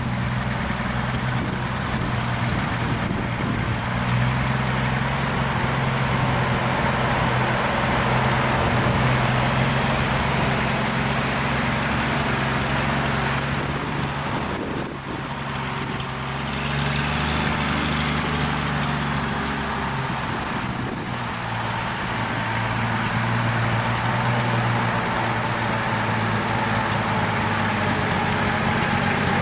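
1948 Chevrolet Loadmaster 2-ton truck's straight-six engine running steadily at low speed as the truck is driven slowly, its note shifting a little a few times.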